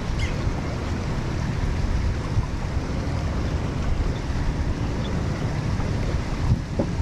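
Wind buffeting the microphone, a steady low rumbling noise with no clear events.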